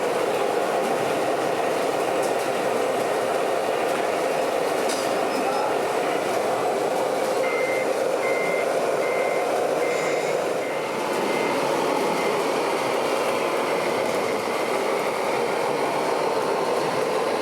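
A reversing beeper on a scale RC truck sounds a series of short beeps at one pitch, about eight beeps over four seconds, starting about halfway through. It plays over a steady mechanical running noise from the RC vehicles.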